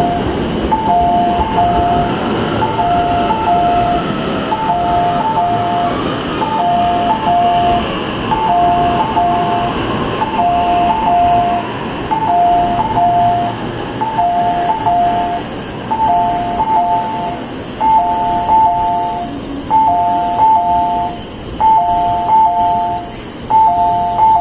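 E233-3000 series electric train pulling into the platform and slowing, with a low running rumble and faint falling motor whine. Over it a two-note station chime repeats about once a second.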